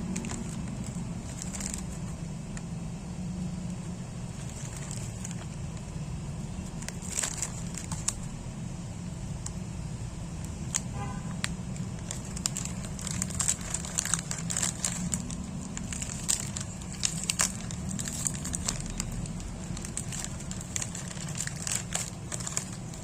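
Plastic wrapper of a Waffello wafer packet crinkling and crackling as it is handled and opened, with sharper, denser crackles in the second half, over a steady low hum.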